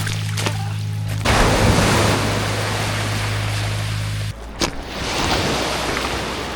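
Ocean surf washing onto the beach, a steady rushing that swells about a second in. A low, steady drone runs under it and cuts off suddenly about four seconds in, followed by a sharp click.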